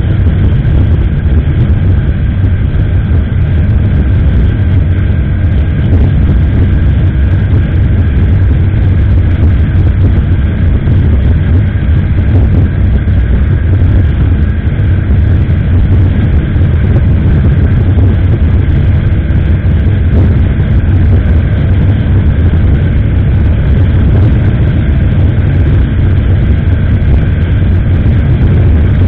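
Steady, loud wind rush and rumble on an action camera's microphone on a moving motorcycle, with the engine and road noise underneath.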